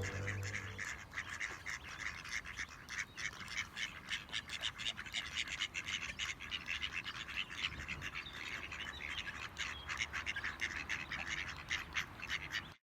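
A cat chewing and crunching its food in quick, crisp crunches several times a second. The sound cuts off shortly before the end.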